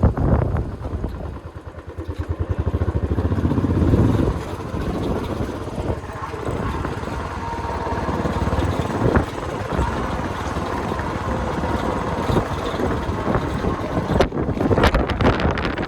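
Vehicle running on the road with wind buffeting the microphone; a rapid engine-like pulsing comes up strongly about two to four seconds in, then settles into a steady rumble.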